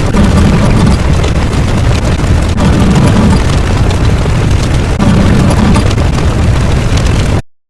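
Loud, continuous explosion-like rumble sound effect, heaviest in the low end, swelling and easing unevenly, then cutting off abruptly near the end.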